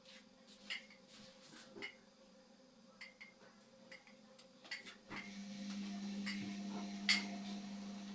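Indesit washing machine running a wash cycle: a few light clicks and ticks, then about five seconds in its drum motor starts up with a steady low hum as the drum turns.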